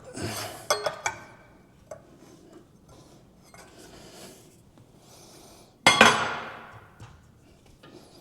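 Steel and tools clattering: a rush with a few sharp metal clinks at the start, then one loud metallic clang about six seconds in that rings out for about a second, as a torch-heated steel rod is set down and worked.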